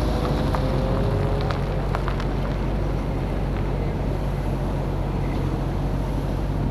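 Car engine idling steadily at about 700–780 rpm while the car sits stopped, heard from inside the open-top cockpit. A faint whine fades out in the first second and a half, and a few light clicks sound over the idle.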